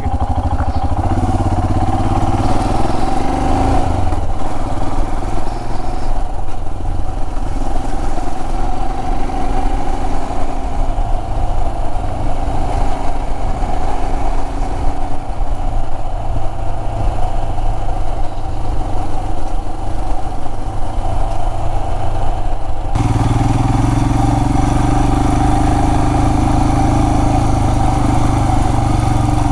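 Royal Enfield Himalayan's single-cylinder engine running steadily as the motorcycle rides along a dirt track. About three-quarters of the way through, the sound changes abruptly and becomes steadier.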